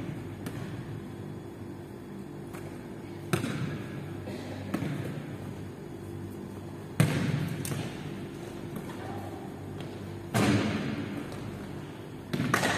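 A basketball bouncing on a hard indoor court, heard as a handful of separate, irregular thuds that echo around a large gym hall.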